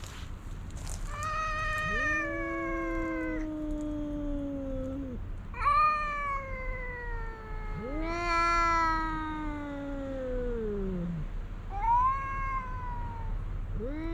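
Cat yowling: a series of long, drawn-out calls, each lasting a few seconds and sliding down in pitch at its end, with short gaps between them.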